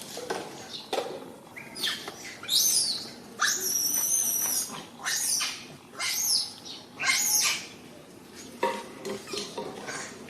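Baby macaque screaming: a series of shrill, high-pitched cries that rise and fall, about one a second, with one longer drawn-out cry near the middle, fading to fainter calls near the end.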